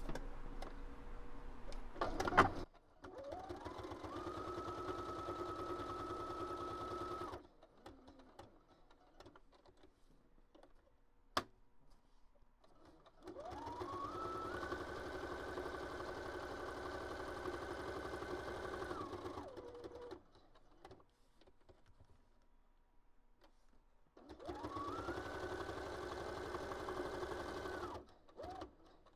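Electric sewing machine stitching through a paper notebook cover in three runs, each spinning up in pitch to a steady whir, holding, then stopping, with pauses between. A short sharp click falls in the middle pause.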